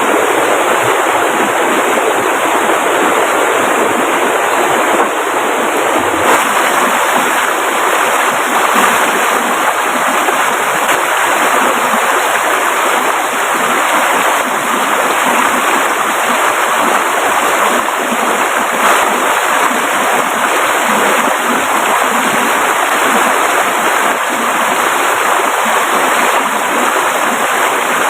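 Steady rushing of a fast-flowing river over rocks, a dense continuous noise with no breaks.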